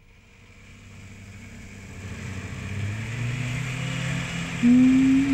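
Car engine and road noise fading in and growing steadily louder. About four and a half seconds in, a loud held tone joins and shifts pitch in steps.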